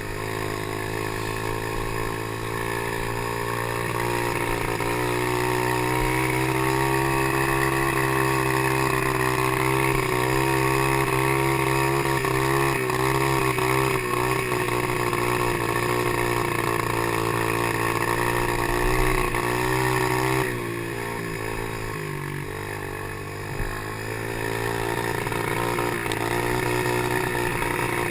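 Chinese PY90 90cc pit bike engine running on the throttle, its pitch rising and falling as it is ridden. About 20 seconds in the revs drop away, and they pick up again a few seconds later.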